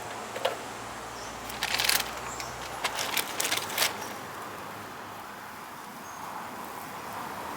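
A few short clicks and knocks in the first four seconds, one at about half a second and small clusters near two and three to four seconds, over a steady faint background hiss.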